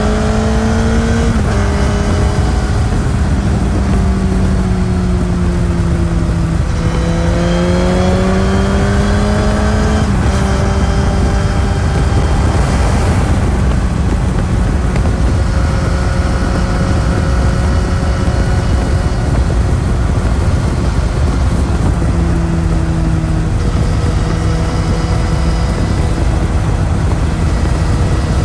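Suzuki GSX-S1000's inline-four engine with its stock exhaust, running under way: the engine note climbs and steps down twice in the first ten seconds as it pulls through the gears, then holds a fairly steady pitch, over a constant low rush of noise.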